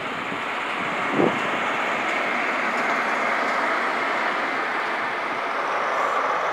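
A diesel InterCity 125 High Speed Train runs slowly past, coming to a halt. Its power car and Mark 3 coaches make a steady train running noise that grows louder over the first second or so, then holds level. There is one brief thump about a second in.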